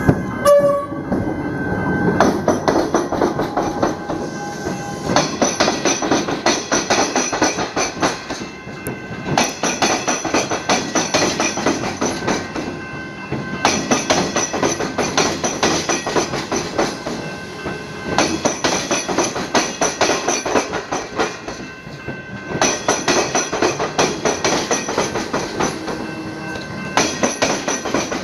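Multi-carriage train rolling slowly over the tram-square diamond crossing, its wheels clattering across the gaps where the tram tracks cut the rails. The clatter comes in repeated rounds every four to five seconds, one for each carriage. A short pitched tone sounds near the start.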